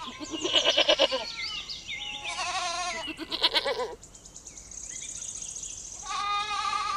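Goat bleating: three wavering calls, one near the start, one around the middle and one starting near the end.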